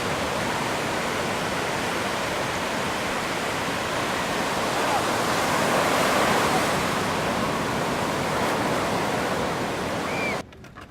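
Steady rushing of ocean surf, swelling a little in the middle and cutting off suddenly near the end.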